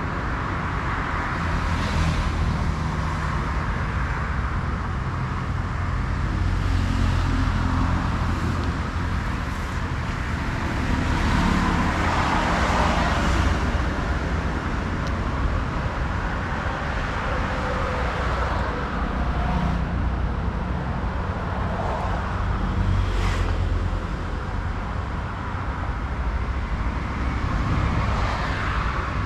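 Street traffic with heavy diesel trucks: engines running under the noise of vehicles passing, which swells and fades several times.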